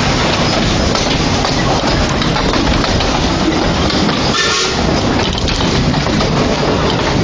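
Quarry Hunslet narrow-gauge steam locomotive running, heard as a loud, steady rushing noise, with a brief higher tone a little past halfway.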